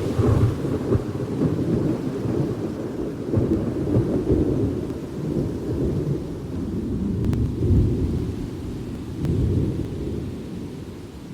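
Thunder rolling: a long, low rumble that swells and ebbs in waves and slowly fades toward the end, over a soft hiss of rain.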